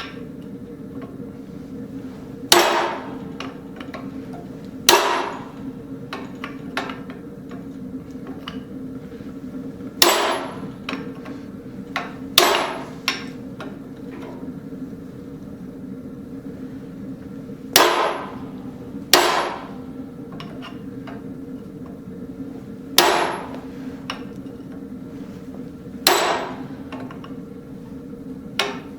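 Hammer striking a radius hot-cut chisel into a steel railroad spike to cut teeth into a decorative face: about nine sharp ringing strikes a few seconds apart, with lighter taps between. A steady hum runs underneath.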